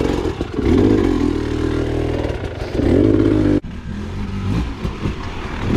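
Dirt bike engine revving hard in repeated bursts as it tries to climb a rocky ledge, the pitch rising and falling several times. About three and a half seconds in the revs cut off abruptly, and a lower, uneven engine sound carries on after.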